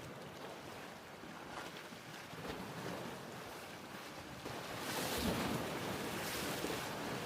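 Ocean waves washing in, a noisy rush that swells louder about four and a half seconds in.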